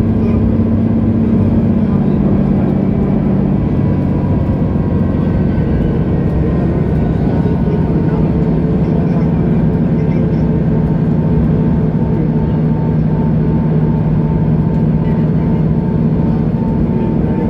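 Mercedes-Benz O530 Citaro bus engine running under way with a steady drone; its note drops in pitch about three and a half seconds in and then holds steady, with a faint thin whine above it.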